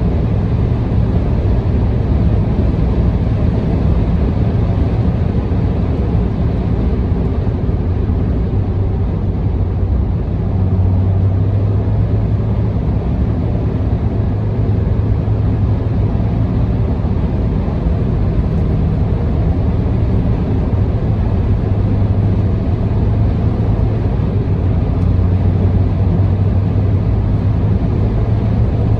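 Car cruising at steady expressway speed: an even rumble of engine and tyre noise with a low hum, heard from inside the car.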